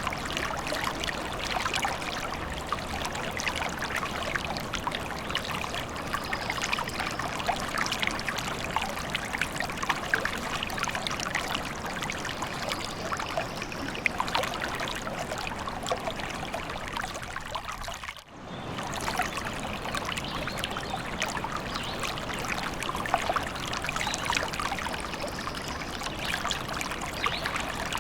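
A small stream trickling and babbling over stones, a steady dense splashing that drops out briefly and then fades back in about two-thirds of the way through.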